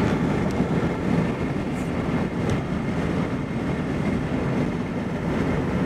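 Steady low rumble of a freight train running past.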